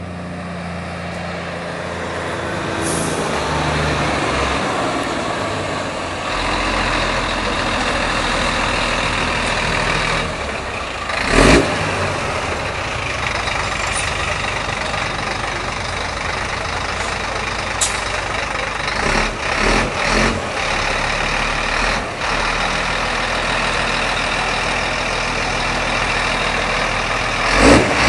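Scania T-cab truck's engine running with a steady low rumble. Brief loud bursts come about eleven seconds in and again near the end, with smaller ones in between.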